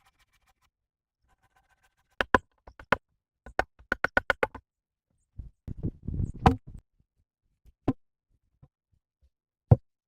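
A series of sharp knocks: a few single ones, then a quick run of about five. A rougher scraping, rustling stretch follows, then single knocks near the end, the last one the loudest.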